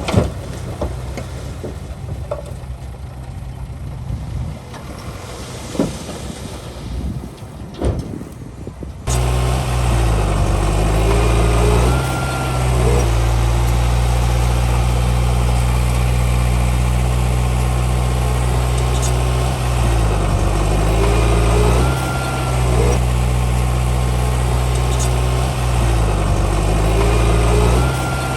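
Heavy diesel engines of earthmoving machinery at work: a quieter stretch with a few scattered knocks, then about nine seconds in an abrupt jump to a loud, steady engine note whose pitch dips and rises every few seconds.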